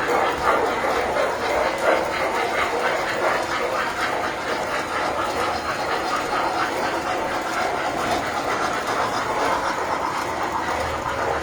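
Tinplate toy trains running on metal track: a steady rolling rattle with rapid clicking of the wheels. A steady hum joins near the end.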